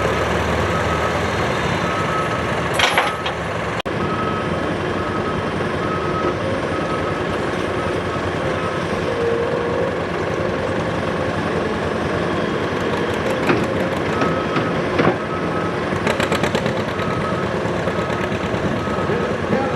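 A vehicle's reversing alarm beeping evenly, on and off for stretches, over a steady running engine, with a few short knocks and rattles.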